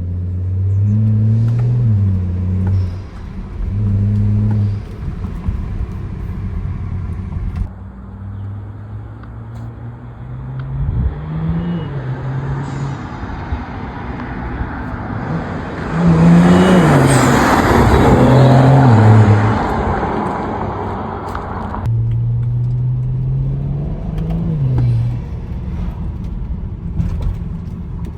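BMW 335i's N55 turbocharged inline-six accelerating, its note rising in pitch and dropping back several times as it pulls through the gears, fed through a BMS Performance intake. The loudest stretch comes about halfway through, on a harder pull, when a rushing intake noise swells over the engine note for a few seconds.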